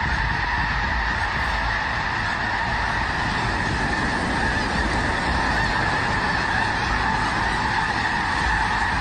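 A huge flock of snow geese calling all at once: a dense, unbroken chorus of honks, with a low rumble beneath it.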